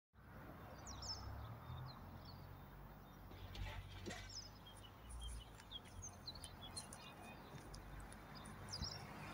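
Small birds chirping in short, scattered calls over a faint, steady low rumble.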